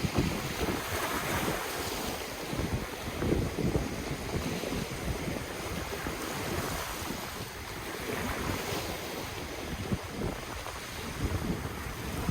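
Ocean surf washing continuously, with wind buffeting the microphone in uneven gusts.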